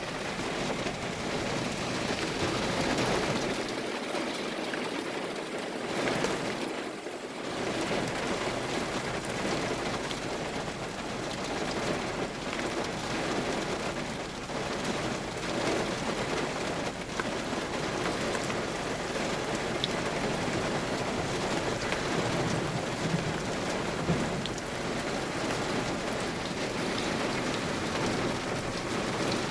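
Very heavy downpour: rain falling hard and steadily, with a dense patter of individual drops striking.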